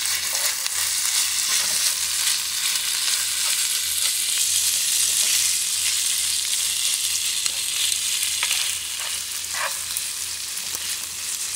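Kimchi fried rice with bologna sizzling in a hot nonstick frying pan as it is stirred, with a steady frying hiss that eases a little after about nine seconds. A few short scrapes and taps of the stirring utensil on the pan come near the end.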